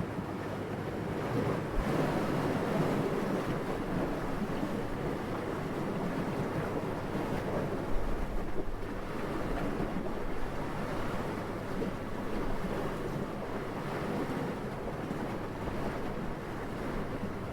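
Steady wind blowing and gusting, swelling about two seconds in, with brief low buffets of wind on the microphone about two and eight seconds in.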